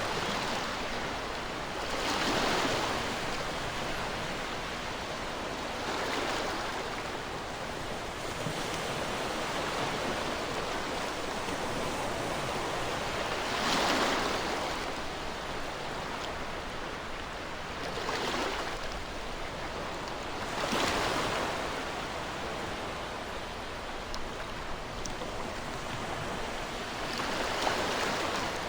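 Ocean waves breaking and washing on a shore: a continuous surf hiss with about six louder wave breaks that swell and fade at uneven intervals.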